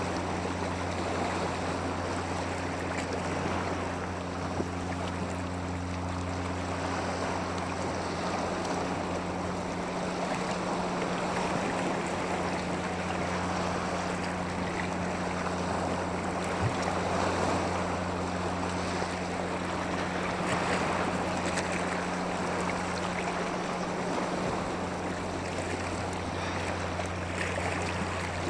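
Steady rushing water that swells and eases, with a constant low hum underneath.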